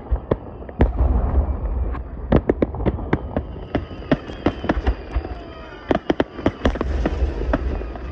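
Aerial fireworks going off in rapid succession: many sharp bangs and crackles. A deep rumble swells up twice, about a second in and again near the end.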